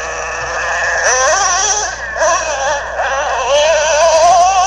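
Nitro RC truck's small two-stroke glow-fuel engine revving as the throttle is worked: a high-pitched whine that is steady at first, shoots up in pitch about a second in, dips around two seconds, then climbs again and holds high near the end.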